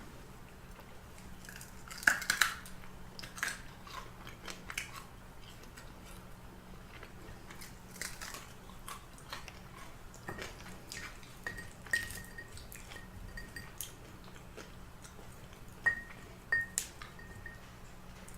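A person chewing and biting fried chicken close to the microphone: irregular wet clicks and crunches, loudest about two seconds in and again near the end.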